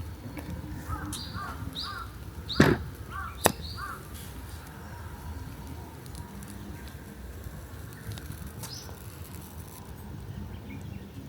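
A wild bird giving a run of short chirping calls in the first few seconds, over a steady low rumble of background noise. Two sharp clicks come about two and a half and three and a half seconds in, the first the loudest sound.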